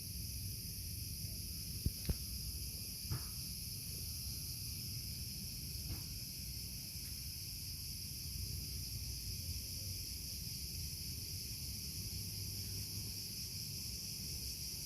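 A steady, unbroken insect chorus shrilling high in pitch, with a few faint clicks about two and three seconds in.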